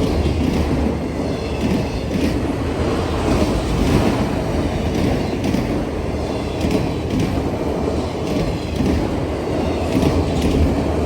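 Freight train cars rolling past at close range: a steady loud rumble of wheels on rail, with repeated clicks as the wheels cross rail joints.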